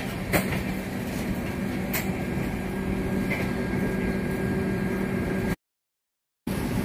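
Doon Express passenger train running, heard from inside the coach: a steady rumble with a low hum and two or three sharp clicks. The sound cuts off completely for about a second near the end.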